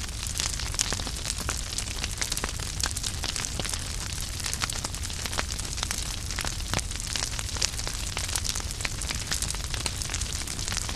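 Wood fire burning in a fireplace: logs crackling and popping in many quick irregular snaps over a steady hiss and low rumble of the flames.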